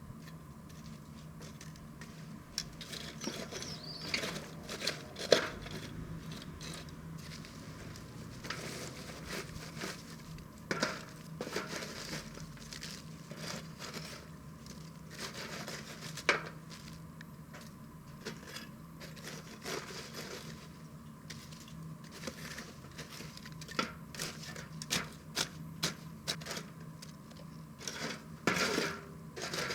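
Wood fire crackling, with scattered sharp pops; the loudest pop comes about five seconds in, and there is a quick cluster of pops near the end.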